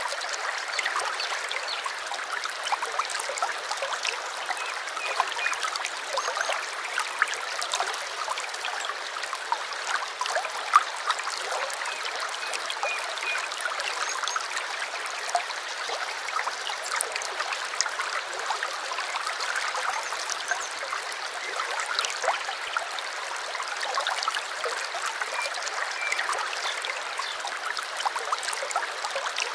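A small stream babbling and trickling over stones: steady splashing water, with a few faint bird chirps now and then.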